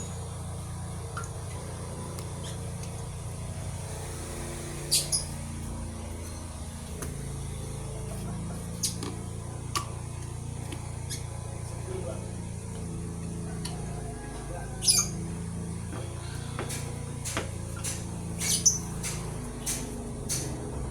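Scattered sharp metallic clicks and clinks of hand tools and valve-train parts during valve spring fitting on a cylinder head, over a steady low workshop hum. The loudest clinks come about five seconds in and about fifteen seconds in, with a quick cluster near the end.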